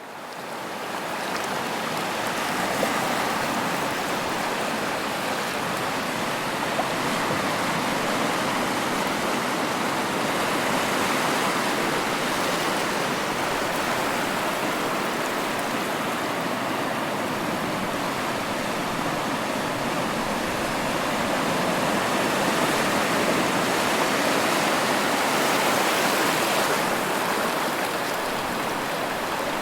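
Ocean surf: a continuous rushing wash of breaking waves that rises out of silence at the start, then swells and eases slowly.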